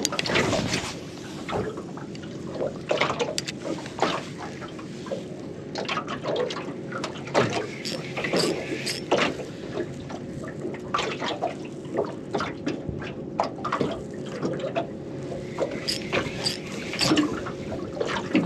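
Water lapping and slapping against the hull of a small aluminium boat, with irregular light splashes and knocks.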